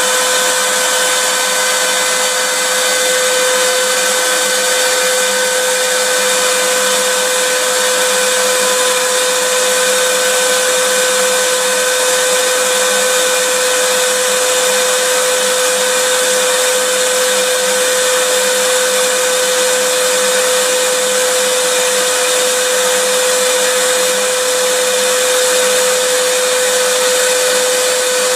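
Vacuum cleaner running steadily: an even rush of air over a constant motor hum that never changes in pitch or loudness.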